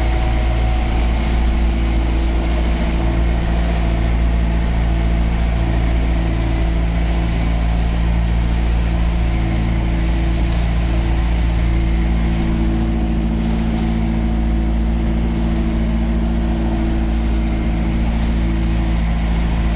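Riverboat engine running steadily under way, a loud low drone with a few steady tones above it and the rush of water and wind.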